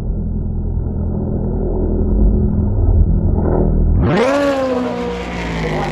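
A dull, low engine rumble for about four seconds, then a sudden change to a race car close by. Its engine note climbs steeply and then slides down as it passes.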